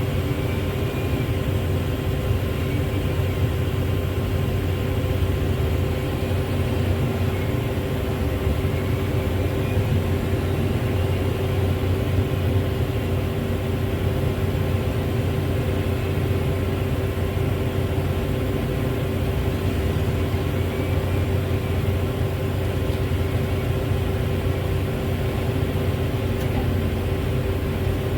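Heavy diesel engine running steadily at a constant speed: an even low hum with a steady higher tone above it.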